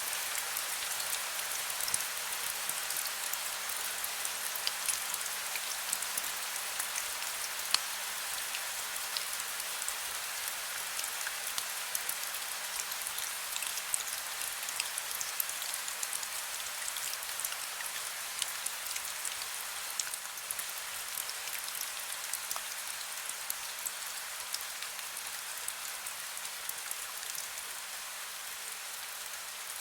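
Heavy rain falling steadily: a dense hiss with many sharp individual drop ticks scattered through it, and no thunder.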